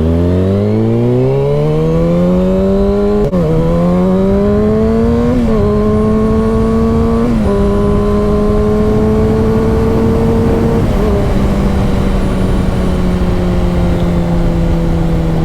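Motorcycle engine pulling away hard, its pitch climbing and dropping sharply three times as it shifts up through the gears, then holding steady and slowly falling as the throttle eases off. Wind rushes over the microphone throughout.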